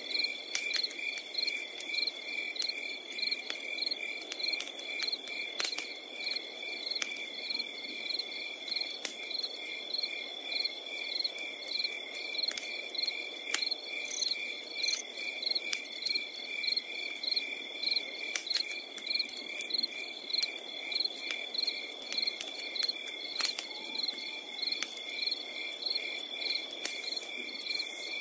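Night insects, most likely crickets, chirping in steady rhythm, about three chirps a second at two different pitches, over a continuous high trill, with scattered sharp clicks.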